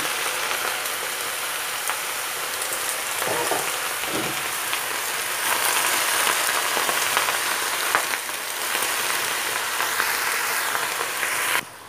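Napa cabbage, black mushrooms and beancurd sticks sizzling in hot oil in a frying pan: a steady hiss with a few clicks of the spatula. It cuts off suddenly near the end.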